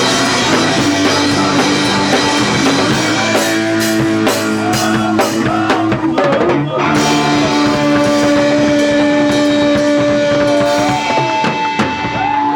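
Live punk rock band playing: electric guitar and drum kit, with a run of hard drum hits in the middle. After about seven seconds the drums thin out and long held guitar notes ring on.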